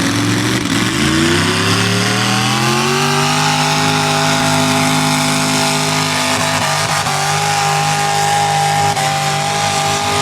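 Tractor engine at a tractor pull, revving up over the first three seconds and then held at high revs under load as it drags the sled, dipping briefly twice in the second half.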